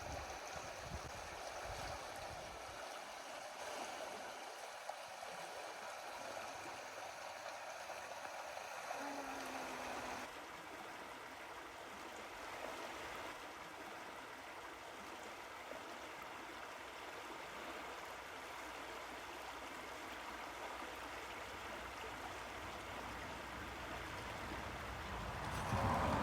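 Running water: a steady, even rush that shifts slightly in character about ten seconds in.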